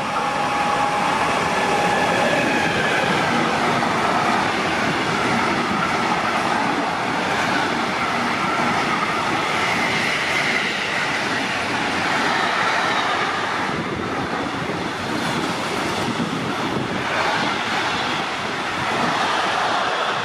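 Train passing through a station at speed: a loud, steady rush of wheels on rails with a wavering high metallic whine, and wheel clatter over rail joints near the end.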